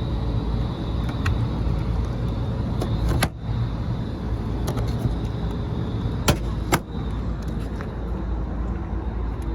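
Steady low running hum of a Lennox HVAC unit's machinery, broken by a few sharp clicks: one about three seconds in and two close together between six and seven seconds.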